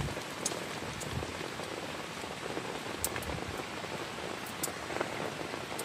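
Heavy rain falling on a tent, heard from inside as a steady hiss with a few scattered sharp ticks of drops.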